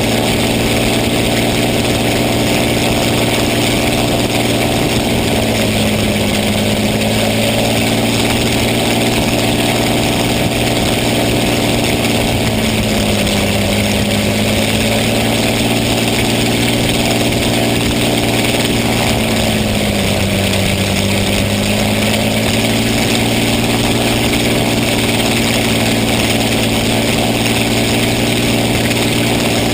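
A steady engine or motor running at constant speed, its pitch sagging briefly and recovering three times, about 6, 13 and 20 seconds in.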